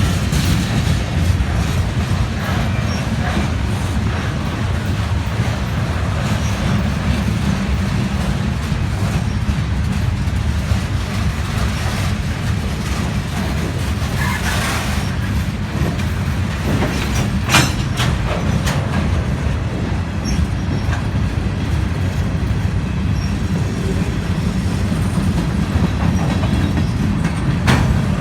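A train rolling past: a steady low rumble of railcars with wheel clatter over the rails, and a few sharp clanks partway through.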